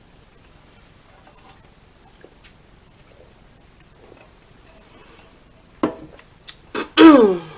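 Faint mouth and eating noises with a few small clicks, then near the end a short voiced sound from the eater that falls in pitch.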